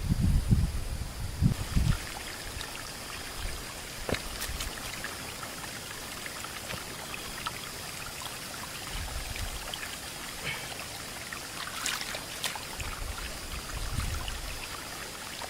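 Water trickling steadily, with a few faint clicks and some low thumps.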